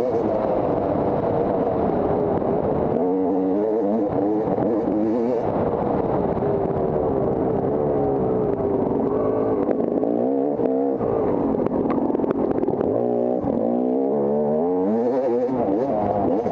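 Off-road motorcycle engine running hard under throttle, its pitch rising and falling continually as it revs up and backs off, with a few brief clatters.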